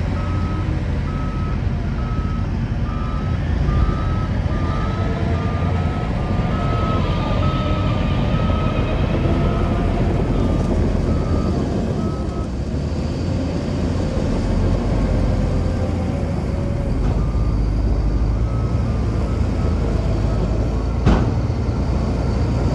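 Reversing alarm on heavy equipment beeping in a steady on-off pattern over a running diesel engine. The beeping stops about halfway through and comes back briefly near the end, and a single sharp knock sounds shortly before the end.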